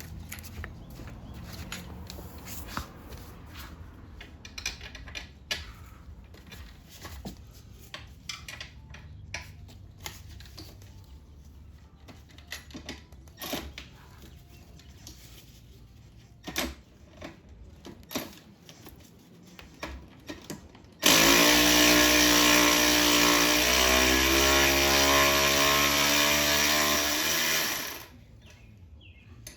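Scattered light clicks and knocks of hand tools on metal, then a power drill runs steadily for about seven seconds near the end, its pitch stepping up partway through, while removing the ATV's skid-plate bolts.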